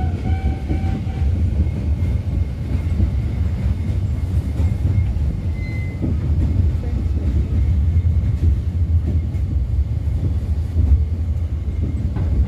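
Passenger train running along the track: a steady low rumble of the wheels and carriage.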